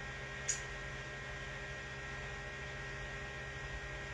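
Steady electrical mains hum, with one short sharp click about half a second in.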